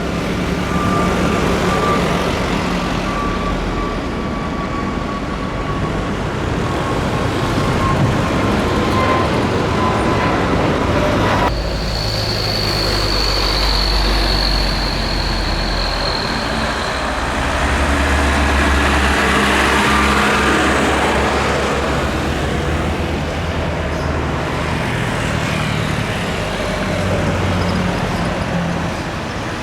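Jet airliner engines running at takeoff power: a loud, steady rumble with a whine that slowly falls in pitch. The sound changes abruptly about 11 seconds in, going on with a higher whine for a few seconds before settling back into the rumble.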